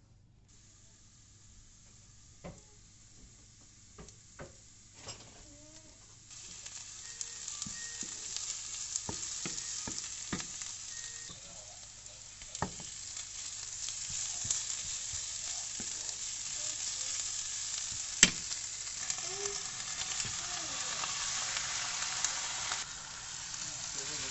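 Diced onions frying in oil in a non-stick pan: a sizzle that comes up about six seconds in and holds. A wooden spatula knocks and scrapes against the pan, with one sharp click near the end.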